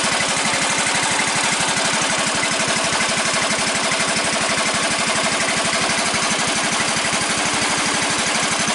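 18-horsepower small engine running steadily, with an even, rapid firing rhythm that holds constant throughout.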